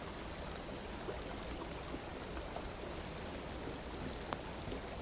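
Steady rush of running water, with a faint click about four seconds in.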